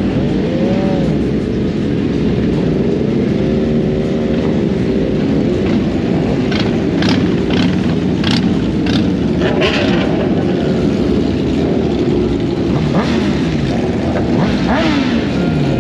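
Motorcycle engine running under way, its pitch rising and falling with the throttle and gear changes, dropping away near the end as it slows.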